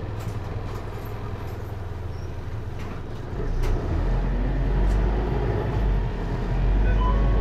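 Hino Liesse micro bus's J05C four-cylinder diesel engine and automatic transmission, heard from inside the cabin. The bus rolls along with a steady low rumble, and about three seconds in the engine note grows clearly louder and deeper as the bus accelerates.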